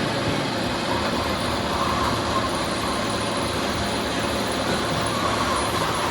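Steady mechanical noise of running machinery, a continuous rumble and hiss with a faint tone, and no distinct strikes.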